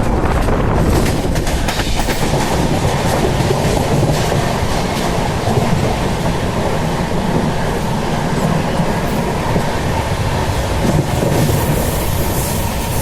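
Indian Railways express train running on the track, a steady rumble with wheels clattering over the rail joints.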